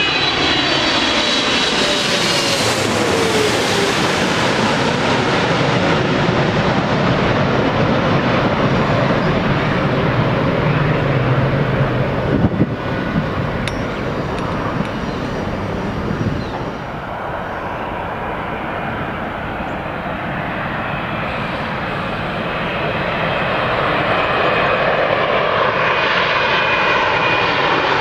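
Jet airliner engines passing close on landing approach: a loud, steady engine noise whose whine falls in pitch as the first aircraft goes by. A few brief knocks come around the middle, and near the end the noise builds again with another falling whine as the next jet passes.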